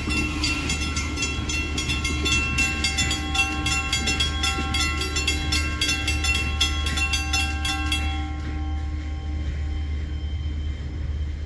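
Railroad crossing bell ringing rapidly over the low rumble of a passing train. The bell stops about eight seconds in and its ringing dies away under the train's rumble.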